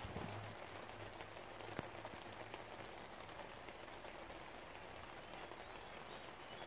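Faint, even, rain-like patter with a couple of small clicks, one right at the start and one just under two seconds in.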